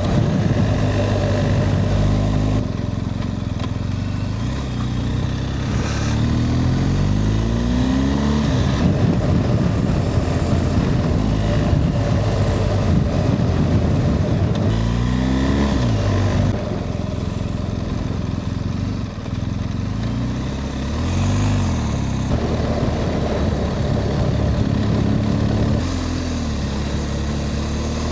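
BMW R 1250 GS boxer-twin motorcycle engine pulling up a steep, winding climb, its revs rising and falling several times with throttle and gear changes.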